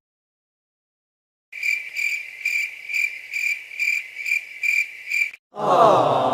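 Crickets chirping as a stock sound effect, the familiar 'awkward silence' cue: a steady high chirp repeating about twice a second, starting after a second or so of silence. Near the end the chirping stops and a different sound with a falling pitch begins.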